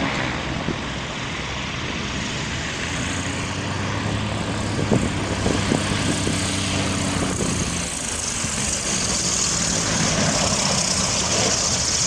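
Aircraft engine noise: a steady drone with a rushing roar that grows louder in the last few seconds.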